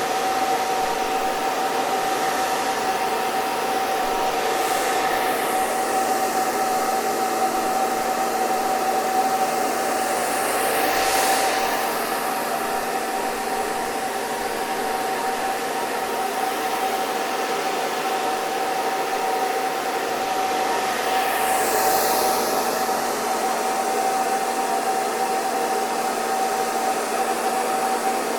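Hair dryer running continuously: a steady rush of air with a constant motor whine under it. The hiss brightens briefly a few times.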